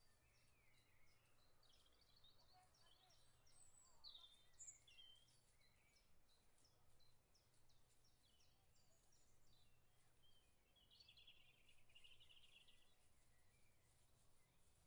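Faint, distant bird calls over near silence: scattered high chirps in the first few seconds and a short trill about two thirds through.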